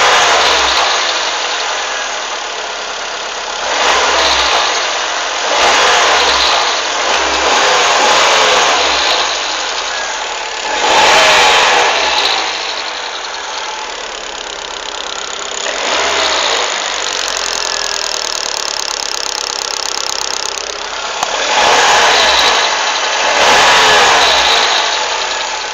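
Hyundai Accent Era car engine running and rising in several swells, with the clicking 'şık şık' noise that the owner is asking about.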